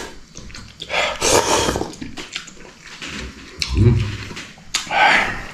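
A man eating noisily: a few slurps of instant noodles, with a short low grunt about four seconds in.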